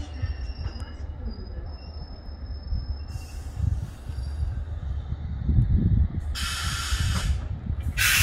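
Electric passenger train rumbling as it pulls away over the tracks, with faint high wheel squeal in the first few seconds. Loud bursts of hiss come briefly at about three seconds, then again about six seconds in and near the end.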